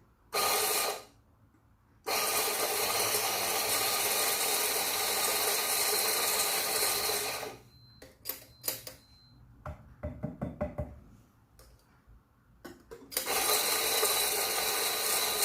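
Electric conical burr grinder grinding espresso beans in bursts: a short pulse, then a run of about five seconds. A series of sharp knocks and taps follows, and the grinder starts again near the end.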